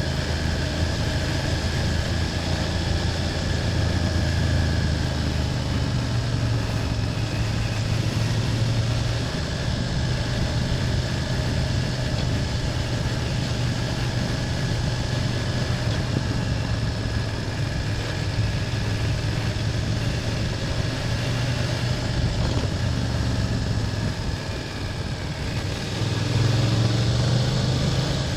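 BMW F800GS motorcycle's parallel-twin engine running under way. The engine note shifts about six seconds in, eases off briefly around twenty-four seconds, then picks up louder again near the end.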